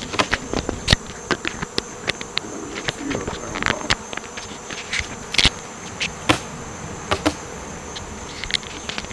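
Honey bees buzzing around the open hive, with a steady high insect drone behind and many sharp clicks and knocks scattered through.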